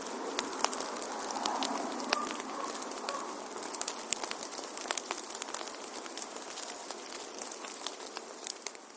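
Wood fire burning in a fireplace: irregular sharp crackles and pops, several a second, over the steady hiss of the flames.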